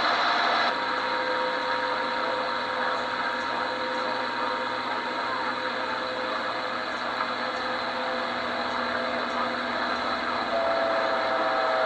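CB radio receiver hissing with static on an open channel, with faint steady whistling tones that come and go; a stronger whistle comes in near the end.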